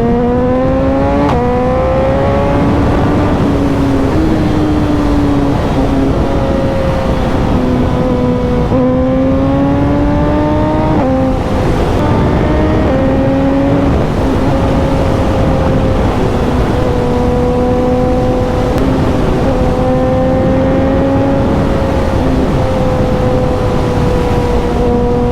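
Suzuki motorcycle engine heard onboard while riding, rising in pitch under acceleration with gear changes about a second in and again around eleven to thirteen seconds in, then holding a fairly steady cruise. A constant rush of wind runs underneath.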